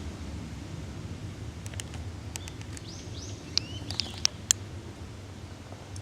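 Outdoor ambience with a steady low rumble, a few short high bird call notes around the middle, and several sharp clicks, the loudest three close together in the second half.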